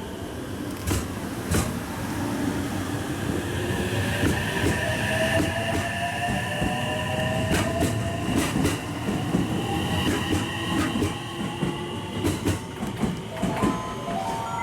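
JR West electric multiple unit pulling out and accelerating: the traction motors give a whine of several tones that climb steadily in pitch, stepping up near the end. Under the whine the wheels rumble and clack over rail joints.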